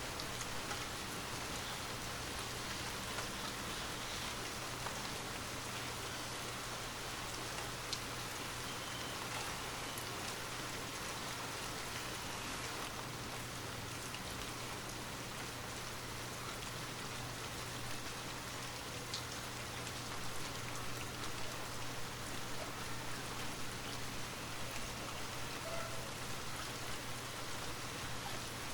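Steady rain with scattered drops tapping, under a faint low hum.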